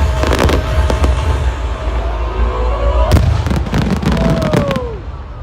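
Fireworks bursting and crackling in quick clusters over music, with a falling whistle near the end as the noise dies away.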